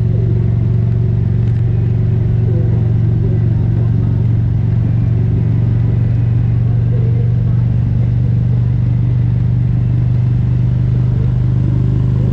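Indian Roadmaster's Thunderstroke 116 V-twin engine running at a steady cruise, with a constant low drone that holds its pitch as the motorcycle rolls along the road.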